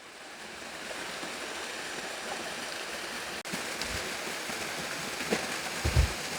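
Creek water rushing steadily over small falls, growing louder over the first second. Two dull low thumps come near the middle and near the end.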